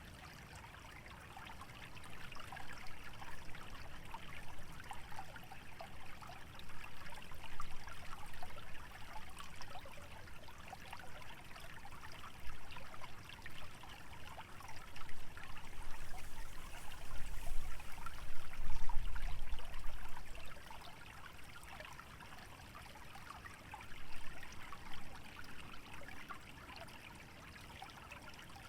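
Shallow stream trickling and bubbling steadily over a wetland bed, swelling and easing in level. A low rumble swells for a few seconds past the middle.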